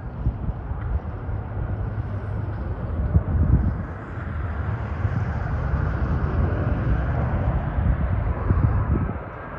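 Jet airliner engines heard as a steady rushing rumble on approach to land, with a deep low rumble that fluctuates and a rushing layer that grows a little stronger about halfway through.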